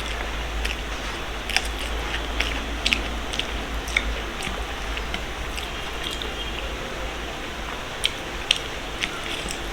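Close-miked eating sounds: chewing and mouth smacks with scattered sharp clicks, over a steady low hum.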